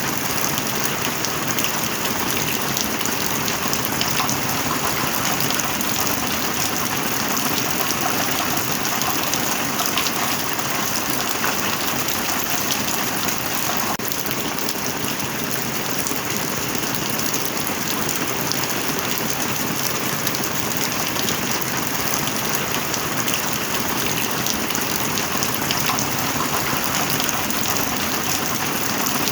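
Heavy rain falling steadily, a dense even patter with no letup.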